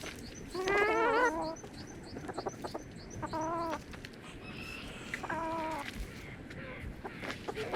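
Chickens calling: three drawn-out, wavering calls a couple of seconds apart, with a fast run of faint high chirps through the first half.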